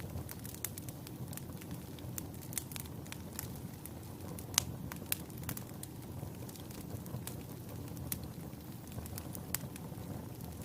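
Wood fire burning in a fireplace: a steady low rush of flames with irregular sharp crackles and pops, one louder pop about halfway through.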